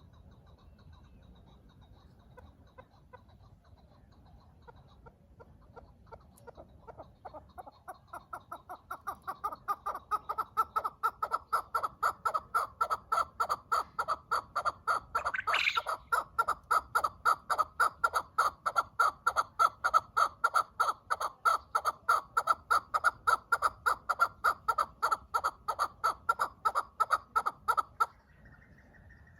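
Chukar partridge calling its rally call: a long series of rapid clucking notes, about four a second, that grows from faint to loud over a few seconds, holds steady, then stops abruptly near the end. A single short sharp click about halfway through.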